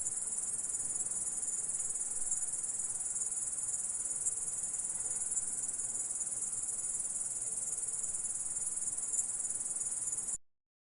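Grasshopper stridulating: a continuous high-pitched buzzing trill, dense and unbroken, that cuts off abruptly near the end.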